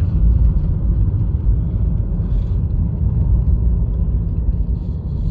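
Steady low rumble of a Honda Fit driving at moderate speed, heard from inside the cabin: engine and tyre noise on an icy, snow-covered road.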